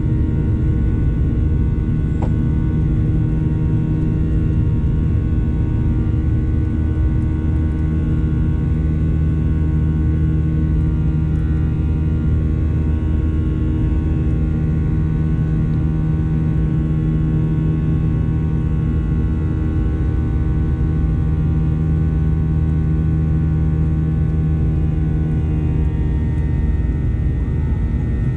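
Cabin noise aboard a Boeing 737-900ER: the CFM56-7B jet engines running steadily, a heavy low rumble with several steady whining tones above it, heard inside the cabin.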